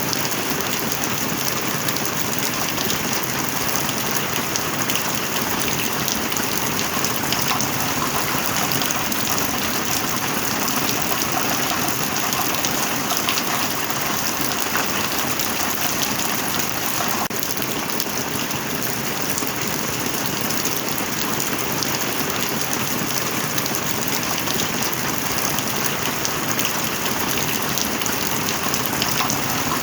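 Heavy rain falling steadily, a dense even patter of drops with no thunder.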